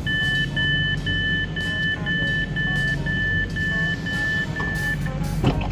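Train door warning signal: about ten short, even electronic beeps at one pitch, two a second, over a steady low rumble, followed by a single thump near the end.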